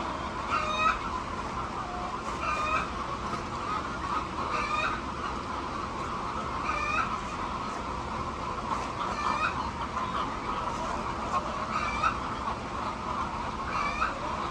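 A flock of hens clucking over a steady chatter, with one call repeating about every two seconds.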